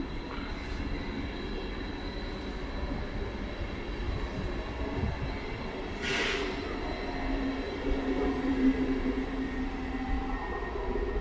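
A train running at a station: a steady low rumble, with a short hiss about halfway through and a droning tone in the later part.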